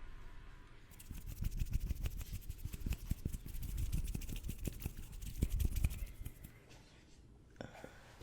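Fast, aggressive scratching and tapping on a hard object, a rapid run of many small strokes starting about a second in and dying away after about six seconds.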